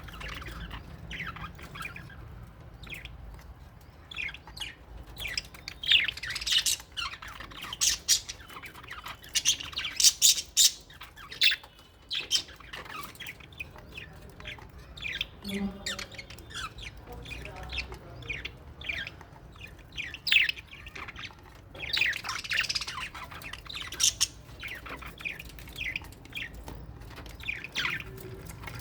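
Flock of lovebirds and budgies in an aviary chirping and squawking, many short sharp calls overlapping, with louder flurries about a fifth of the way in, near the middle and again about three quarters through.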